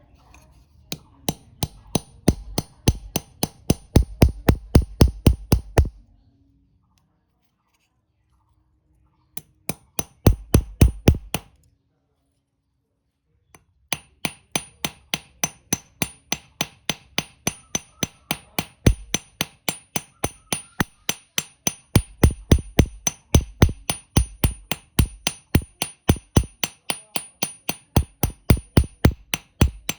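Hand hammer striking steel on an anvil, about three or four blows a second, each with a bright metallic ring. The hammering comes in three runs: a few seconds of blows, a pause, a short run, another pause, then a long steady run.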